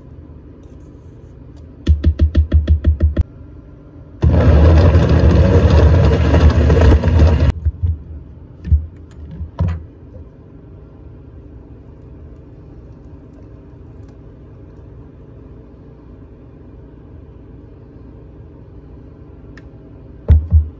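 Countertop blender blending a smoothie: a quick burst of short pulses about two seconds in, then a continuous run of about three seconds. A few short knocks follow, with a sharp knock near the end.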